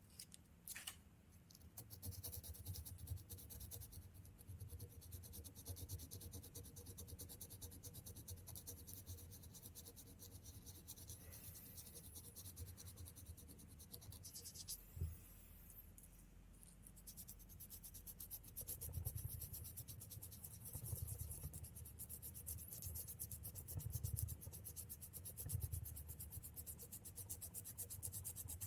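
Sandpaper rubbed by hand over ignition switch parts in quick, short back-and-forth strokes, scraping off grime and corrosion to clean the switch. It is faint, and starts about two seconds in.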